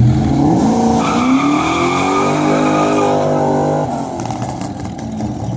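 A vehicle engine revving up, rising in pitch over the first two seconds, holding steady, then easing off about four seconds in.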